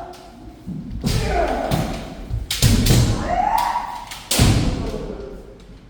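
Kendo practice: three loud impacts, about every two seconds, from stamping feet and bamboo-sword strikes, with shouted kiai between them.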